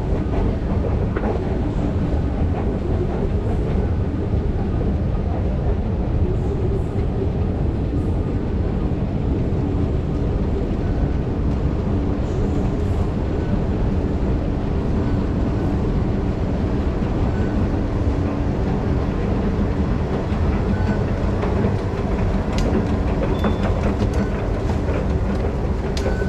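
Singapore MRT train running steadily: an even rumble of wheels on rail with a steady low motor hum and faint clicks.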